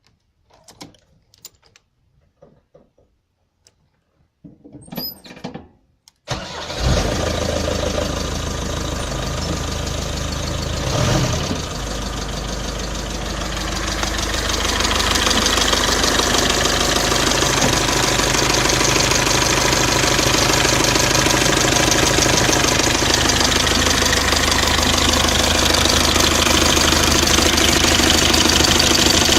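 Mercedes-Benz OM601 2.3-litre four-cylinder diesel engine starting about six seconds in, after a few short faint clicks, then idling steadily. The engine has a knock, which the owner is trying to track down.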